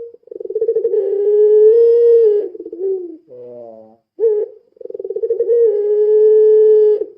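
A puter pelung, a long-voiced domestic collared dove, cooing twice: each call opens with a short note and a rapid rolling flutter, then settles into one long, steady coo held for about two seconds before dropping off. A shorter, softer note sounds between the two coos.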